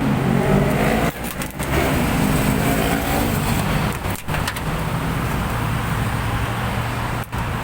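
Motor vehicle engine and road traffic noise, steady, broken by a few brief dropouts.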